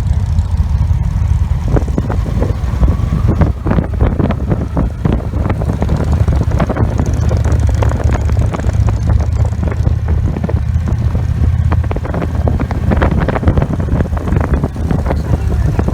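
Victory Vision motorcycle's V-twin engine running steadily at road speed, with the wind buffeting the microphone in frequent irregular gusts.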